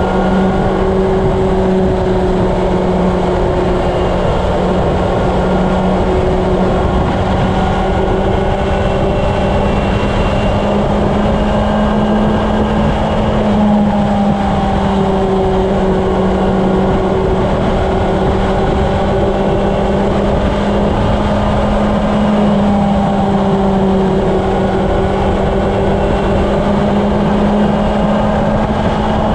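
Honda CB750's inline-four engine running at a steady highway cruise, its pitch drifting only slightly up and down, under heavy wind rush on the microphone.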